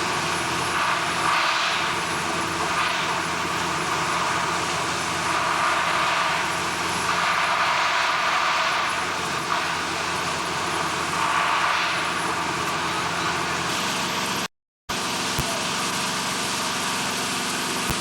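Steady industrial machinery noise with a hiss over a few faint low hums, swelling now and then. It cuts out completely for a moment about three-quarters of the way through.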